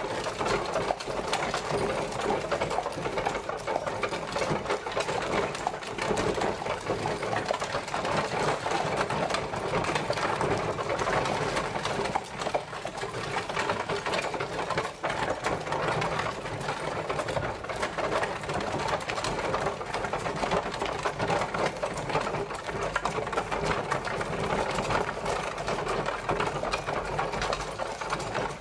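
Horse-drawn carriage travelling: a steady, dense rattle and clatter of the wheels and wooden body, with no pauses.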